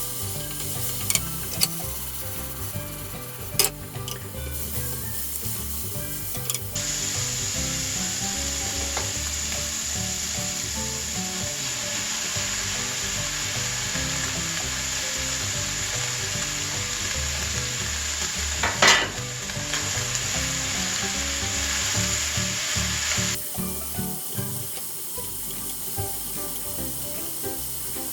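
Japchae ingredients sizzling in hot oil in a pan as they are stir-fried over high heat. The sizzle swells about a quarter of the way in and eases off near the end. A spatula knocks against the pan a few times, loudest about two-thirds of the way through.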